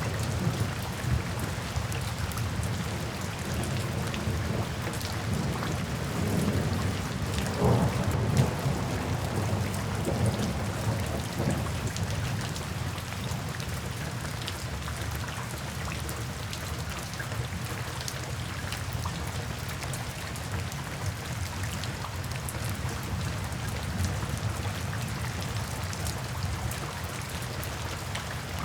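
Steady rain falling, with soft low rumbles of thunder that swell in the first half, strongest about eight seconds in, then ease off.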